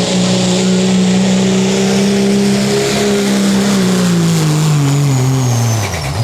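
Turbocharged diesel pickup engine at full throttle under load on a pulling sled, holding steady high revs, then the revs fall off steeply near the end as the throttle comes off, with a high whistle winding down alongside.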